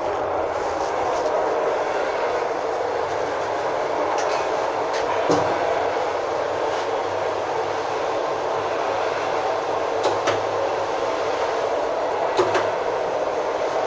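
Steady rumbling noise with a few scattered light clicks and knocks.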